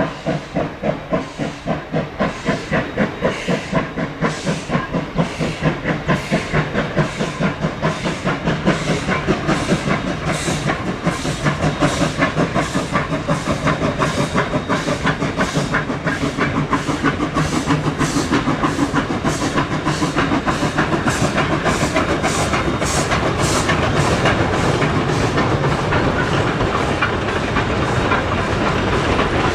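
QR C17-class 4-8-0 steam locomotive C17 974 working away with its train: a steady run of exhaust chuffs with steam hiss, the beats quickening and growing louder as it picks up speed.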